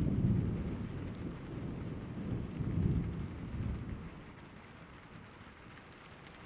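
Thunderstorm: low thunder rumbling over steady rain, with a second swell of thunder about three seconds in that dies away a second later, leaving the rain.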